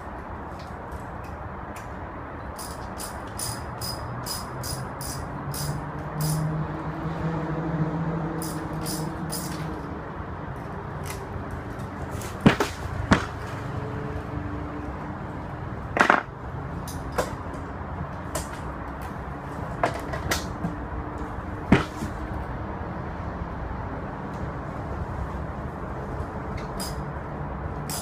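Hand tools working on a scooter's metal parts: runs of quick, sharp clicks, broken by a few loud single metal clanks.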